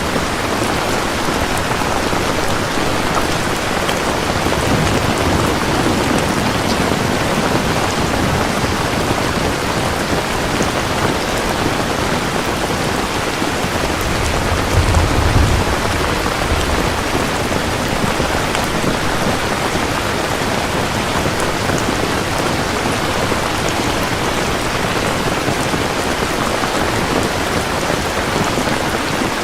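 Steady heavy rain falling, with a low rumble of distant thunder about halfway through.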